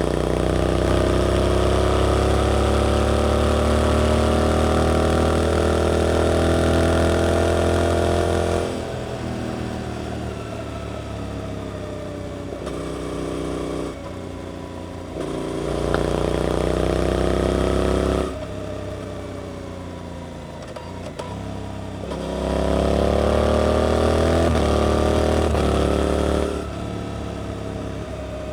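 Suzuki GSX-8S parallel-twin engine through an Arrow aftermarket exhaust, accelerating hard three times with the pitch rising. Each pull ends with the throttle closed and the revs falling away.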